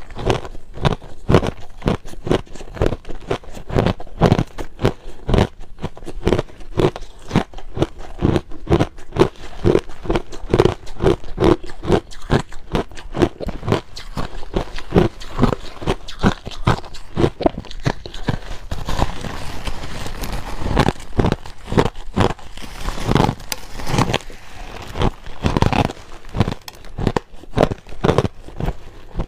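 Close-up crunching of crushed ice being bitten and chewed, a fast, dense run of crisp crunches several times a second.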